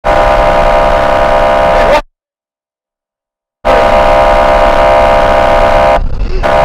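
A vehicle horn blaring in two long, steady blasts of about two seconds each, separated by a gap of total silence.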